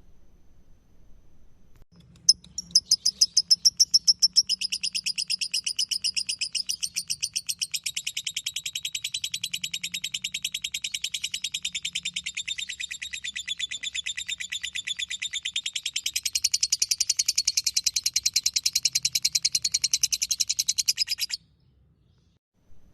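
Lovebird 'ngekek': one long unbroken, very rapid chattering trill. It starts about two seconds in, runs for nearly twenty seconds and cuts off suddenly near the end.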